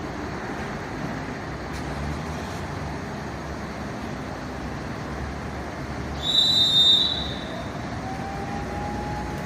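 Steady vehicle and traffic noise. About six seconds in, a loud high beep sounds for under a second, and from about eight seconds a steady tone rises slightly in pitch and then holds.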